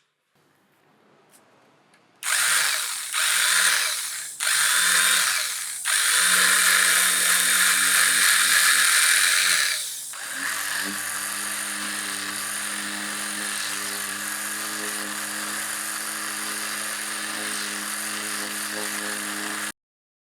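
Restored handheld external concrete vibrator's electric motor test-run. It starts and stops a few times, then runs steadily. About halfway through it settles into an even humming run, and it cuts off abruptly near the end.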